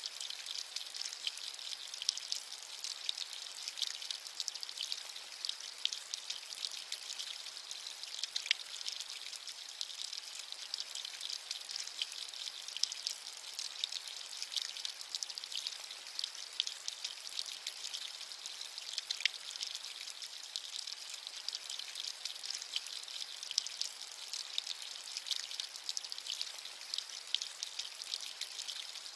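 Steady rain falling, a bright even hiss of many small drops with frequent little patters and ticks, and almost no low rumble.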